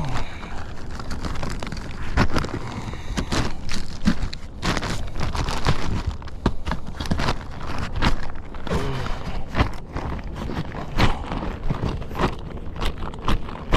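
Irregular knocks, scrapes and crackles of work on an asphalt shingle roof close to the microphone: steps and shingles being handled and pulled, over a steady low rumble.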